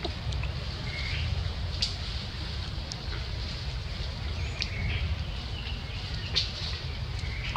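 Outdoor ambience of short high bird chirps every few seconds and a few sharp clicks over a steady low rumble.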